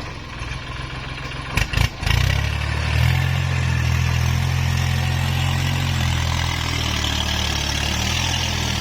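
Kubota tractor's diesel engine running steadily. Two sharp knocks come a little under two seconds in, and about a second later the engine note grows stronger and holds.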